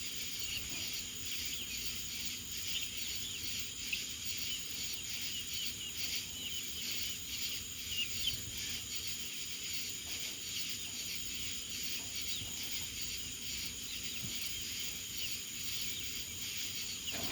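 A steady, high-pitched insect chorus of crickets or cicadas, with many short, faint bird chirps over it.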